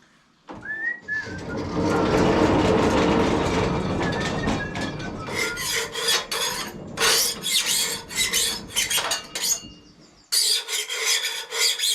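Rough scraping on wood: a loud rasping scrape starts about half a second in and holds for a few seconds, then breaks into bursts of quick rasping strokes.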